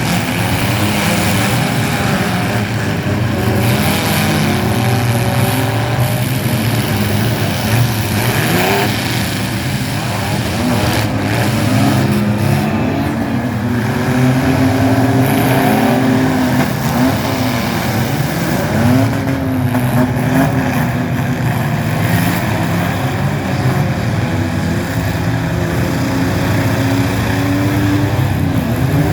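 Mini truck engines running and revving, their pitch rising and falling again and again over a steady mechanical din.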